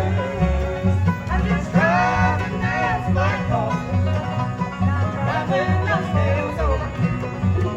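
Bluegrass band playing live: banjo and guitar over a bass walking a steady beat of about two notes a second, with a lead melody line bending in pitch above.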